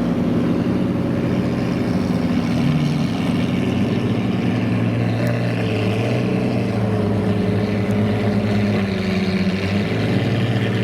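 Car engines running steadily, with low, even engine notes; a higher engine note comes in about halfway through.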